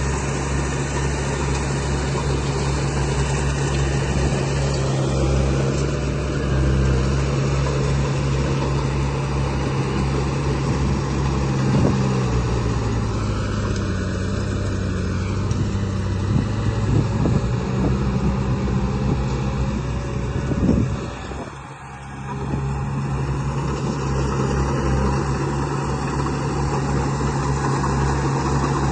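Heavy diesel engine sound, as on a model bulldozer or dump truck, running with a steady low hum. About halfway through, the pitch sags lower for a few seconds, then the sound briefly drops out and comes back steady.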